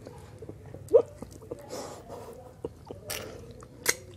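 Close-up wet mouth sounds of eating ripe mango: biting and chewing, with slurps and small clicks. There is a loud smack about a second in and another sharp pop near the end.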